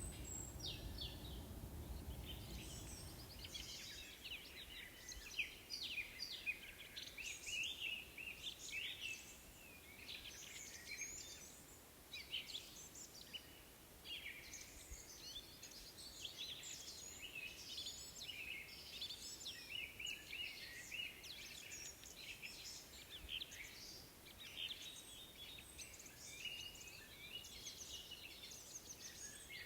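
Songbirds singing in a dense, continuous mix of short high chirps and trills.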